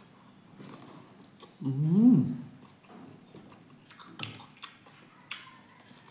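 A man eating boiled meat and rice with his hands: wet chewing with small mouth clicks and lip smacks. About two seconds in he lets out one loud hum, rising then falling in pitch.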